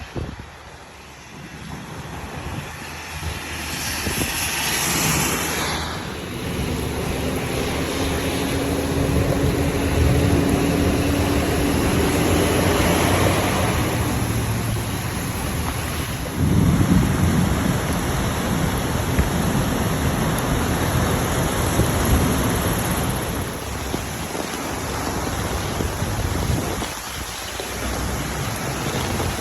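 Heavy rainstorm: a steady rush of rain and wind with low rumbling throughout, swelling louder about sixteen seconds in. A faint hum rises slowly in the middle.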